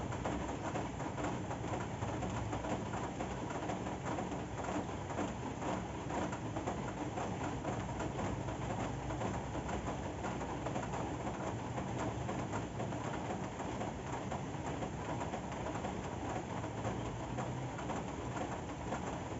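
Steady rain falling: an even, unbroken noise, heaviest in the low range.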